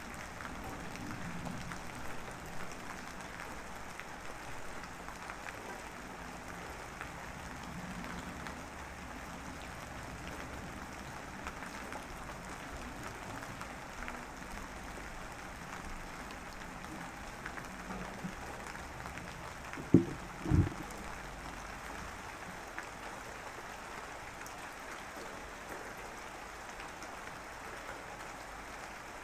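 Steady rain falling. About two thirds of the way through, two dull thumps half a second apart stand out as the loudest sounds.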